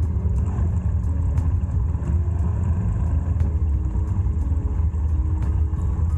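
Motorcycle riding along the road: a steady, loud low rumble.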